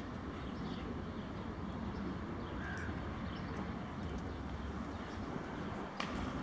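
Outdoor ambience: a steady low rumble with scattered small bird chirps, and one sharp click near the end.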